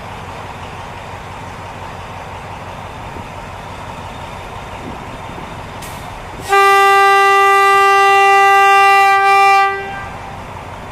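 Alsthom diesel-electric locomotive sounding one long horn blast of about three seconds on departure, a single steady pitch with a brief dip near its end, over the steady rumble of the locomotive and train.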